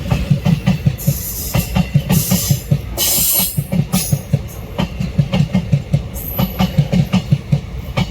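Passenger train passing at speed, its wheels clattering over rail joints in a quick, even rhythm, with brief hissing rushes of air.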